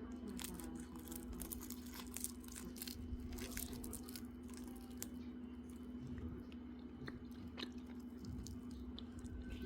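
A person chewing and crunching food up close, with irregular crisp crunches, over a steady low hum.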